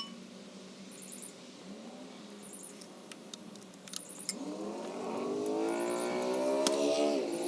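A motor's whine rising in pitch for about three seconds, then holding steady.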